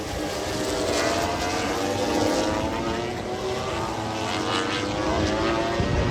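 MotoGP racing motorcycles running on the circuit during the warm-up lap, several engine notes overlapping and slowly rising and falling in pitch as the bikes go by.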